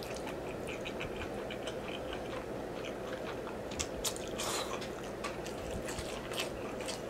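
Close-miked mouth sounds of a person chewing a big mouthful of spaghetti in meat sauce: a run of small wet clicks and smacks, with a short louder slurp of noodles about four and a half seconds in.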